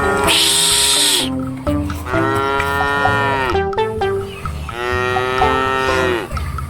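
Cattle mooing: three long, drawn-out moos, each dropping in pitch as it ends, the first with a breathy hiss. Background music plays underneath.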